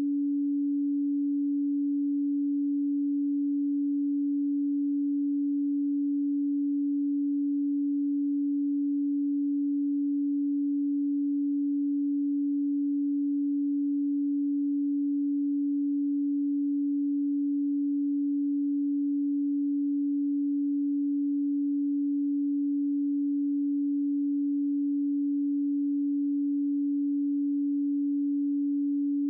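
A pure 285 Hz sine tone, one unbroken steady pitch at constant level.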